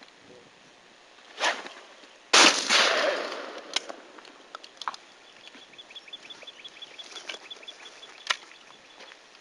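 A single shotgun shot at a thrown clay target about two seconds in, ringing out for about a second, with a shorter sharp sound just before it and a few light clicks afterwards.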